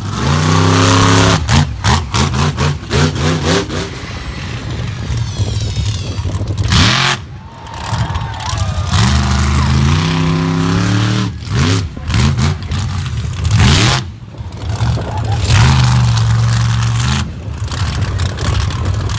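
Monster truck engine revving hard in repeated throttle blips, its pitch climbing and falling again, with the sound cutting off sharply several times as the throttle snaps shut.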